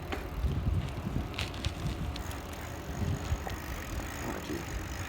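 Riding noise of a bicycle picked up by a handheld phone: a low steady rumble of wind and rolling on the microphone, with a few light clicks from the bike.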